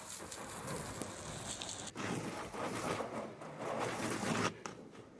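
Irregular rubbing and scrubbing noise of a car being cleaned by hand, louder for a couple of seconds and then cutting off sharply.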